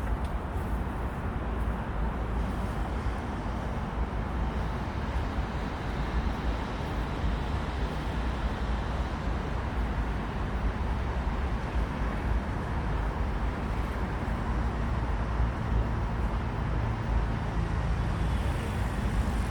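Steady low rumbling noise with no distinct events, unchanging throughout.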